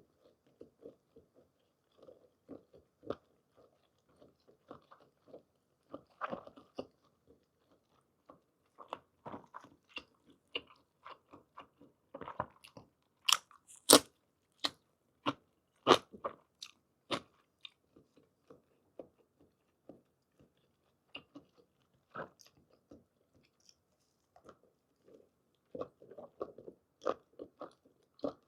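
Close-miked chewing of soft blanched whole squid and scallions in chogochujang: irregular wet chewing and lip-smacking clicks, with a run of sharper, louder smacks about halfway through.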